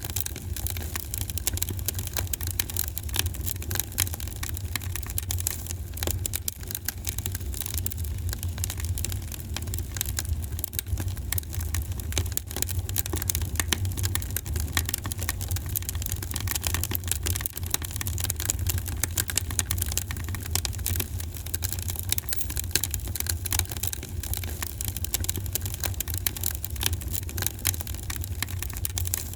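Fire crackling in a fireplace: frequent small pops and snaps over a steady low rumble.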